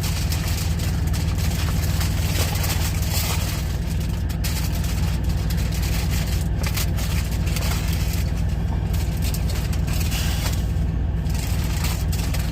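Steady low rumble of a parked semi truck's idling diesel engine, with scattered light clicks and rustles of handling.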